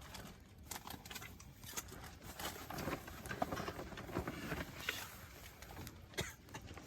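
Campfire crackling: irregular sharp snaps and pops from burning wood, some louder than others.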